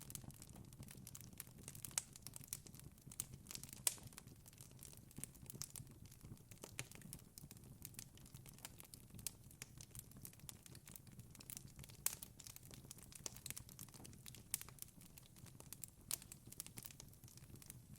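Wood fire in a fireplace crackling: an irregular stream of small pops and snaps, with a few sharper cracks, over a soft low rumble of the flames.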